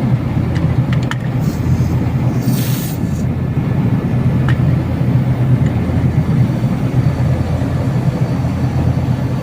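Carrier air conditioner running, a steady hum from its compressor, now working again after a thermostat fault, and its condenser fan. A short hiss comes about two and a half seconds in.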